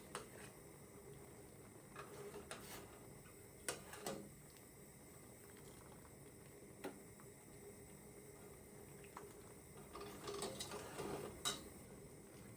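Quiet room tone with scattered small clicks and knocks of objects being handled, a cluster of them about ten seconds in and two sharper taps, one about four seconds in and one near the end.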